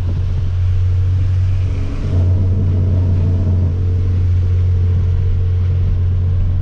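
Hyundai Veloster Turbo's turbocharged 1.6-litre four-cylinder with a catless downpipe, heard from inside the car while cruising: a steady low exhaust drone with road noise. The drone dips briefly about two seconds in, then settles back to a steady tone.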